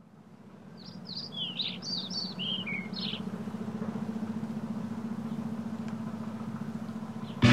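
Birds chirping: a quick run of short, falling chirps in the first three seconds, over a steady low hum that fades in and runs on.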